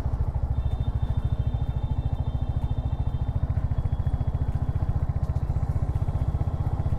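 Royal Enfield Hunter 350's single-cylinder engine running steadily at low revs, an even, rapid thumping exhaust beat.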